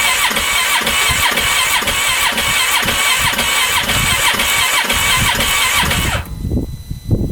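2015 Polaris Ranger 570's single-cylinder engine being cranked by its electric starter, turning over in an even rhythm of about three strokes a second without catching, then stopping abruptly about six seconds in. The engine won't fire, and the owner suspects the fuel injector isn't spraying. A few dull thumps follow the stop.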